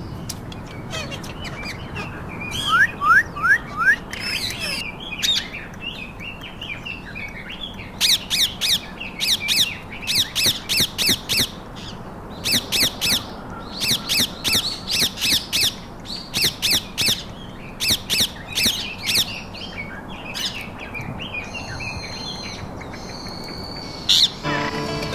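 Parrots squawking: runs of short, sharp calls repeated several times a second in groups, mostly from about eight seconds in until a few seconds before the end, with a few quick rising chirps a few seconds in.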